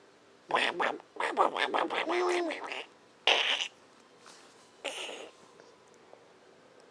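A woman doing a Donald Duck voice: raspy, buzzing duck-talk for about two seconds, followed by two short bursts.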